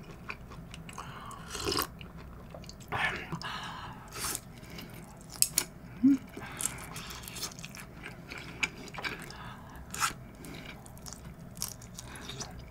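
Close-miked eating sounds: a sip of warm green tea, then chewing of king prawn nigiri, with scattered wet mouth clicks and smacks.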